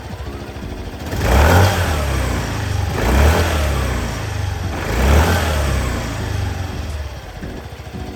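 Yamaha JOG125 scooter's 125cc single-cylinder four-stroke engine idling through its exhaust, blipped three times, each rev rising briefly and dropping back to idle.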